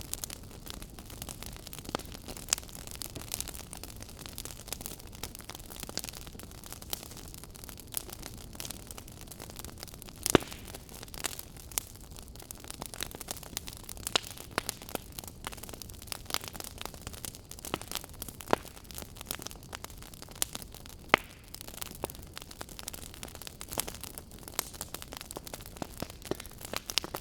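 Fire burning in a fireplace, crackling: a steady hiss with frequent sharp pops and snaps, the loudest about ten seconds in and again about twenty-one seconds in.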